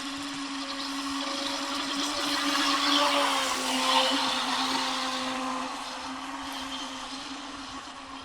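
Radio-controlled boat's electric motor whining at a steady pitch over a hiss of spray, growing louder to a peak about four seconds in, then fading as the boat runs past, its pitch dropping slightly.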